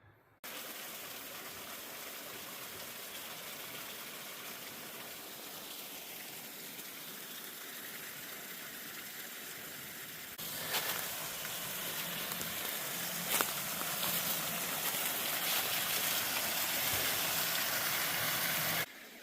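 Steady rushing of running water, a stream or small waterfall, heard in two takes: the second, from about ten seconds in, is louder and carries a couple of sharp clicks.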